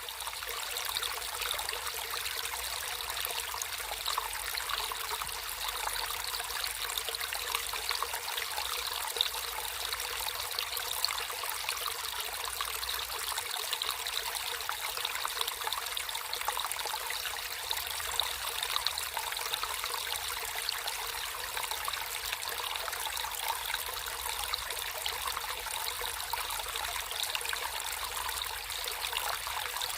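Water trickling and splashing in a small natural stream, a steady bright babble with tiny irregular splashes.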